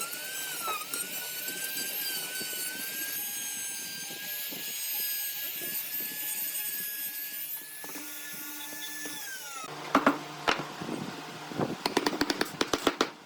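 Small electric power tool working wood, its motor whining steadily at a high pitch that sags briefly under load, then switching off about ten seconds in. A few sharp knocks follow, and rhythmic music with a quick plucked beat starts near the end.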